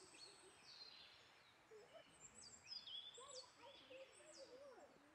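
Faint songbird chirps: a scattered series of short high notes, each dropping quickly in pitch, over quiet outdoor background.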